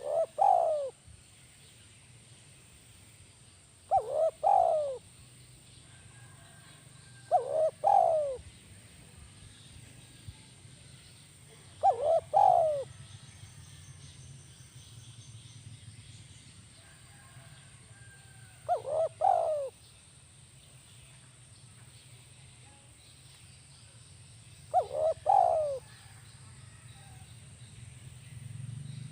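Spotted dove (tekukur) cooing: a short phrase of a few quick notes, repeated six times at gaps of about four to seven seconds. A faint steady low hum runs underneath.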